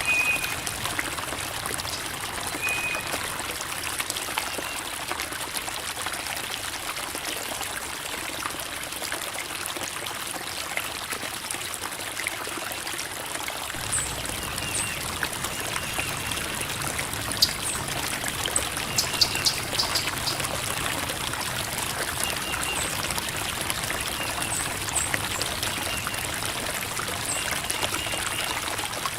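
Creek water flowing and babbling over rocks, a steady trickling rush. Faint short high chirps come here and there, and a low rumble joins in about halfway through.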